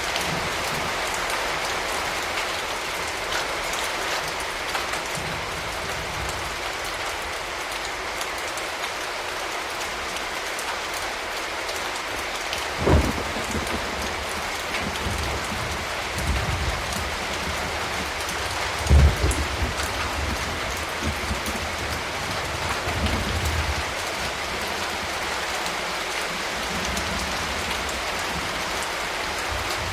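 Steady rain falling on a surface. Two short low thuds stand out about halfway through and a few seconds later, with fainter low rumbles between them.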